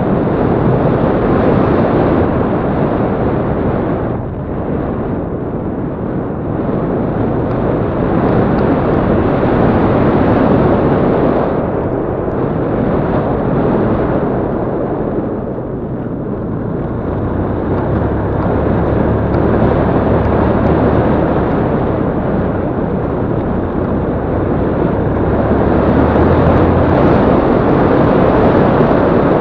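Yamaha Crypton-X motorcycle being ridden off road, its engine running under wind rushing over the microphone. The sound eases off briefly twice before settling into a steadier low engine hum in the second half.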